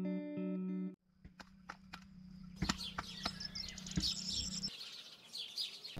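Plucked guitar music for about the first second, cut off abruptly. Then birds chirping repeatedly, with a few sharp knocks and clicks.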